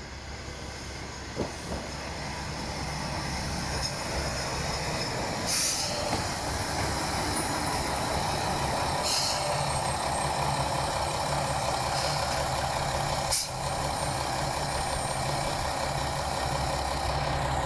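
A diesel railcar local train runs in along the platform, its engine hum and wheel noise growing louder over the first few seconds as it comes close. Four short bursts of air hiss come from the train, the last with a sharp click.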